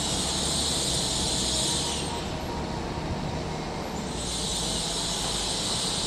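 LNER Azuma high-speed multiple unit drawing slowly into the platform: a steady low running rumble, with two spells of high hiss of about two seconds each, one at the start and one in the second half.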